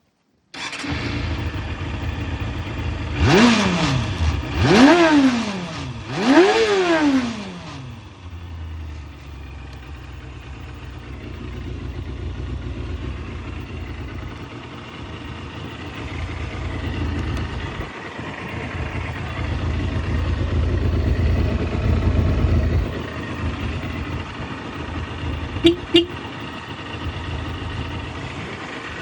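Suzuki GSX250FX motorcycle's 250 cc inline-four engine running, blipped three times in quick succession with the pitch rising and falling each time, then settling to a steady idle. Two short sharp sounds come near the end.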